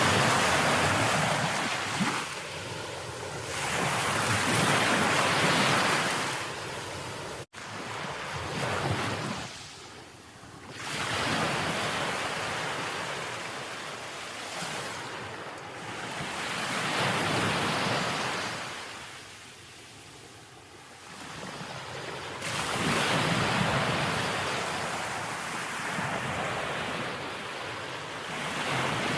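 Ocean waves breaking and washing up the shore, the surf swelling loud and falling back every few seconds. The sound drops out for a split second about a quarter of the way in.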